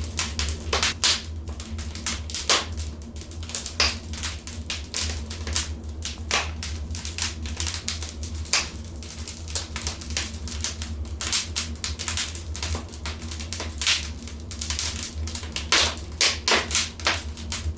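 Wood fire in a fireplace crackling: irregular sharp pops and snaps, some much louder than others, over a steady low rumble.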